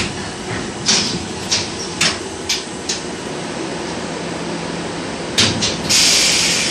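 An LVS-86K tram in motion: a steady running noise with a series of sharp knocks from the wheels over rail joints, about six in the first three seconds and two more near the end. A loud steady hiss starts just before the end.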